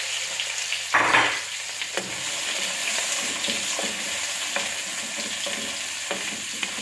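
Sliced onions sizzling in hot cooking oil in a frying pan: a steady frying hiss with light knocks of stirring, and a brief louder burst about a second in.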